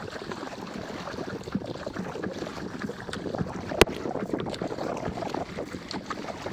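Water splashing and sloshing around an inflatable stand-up paddleboard as it is paddled, with wind buffeting the microphone. A single sharp knock comes a little under four seconds in.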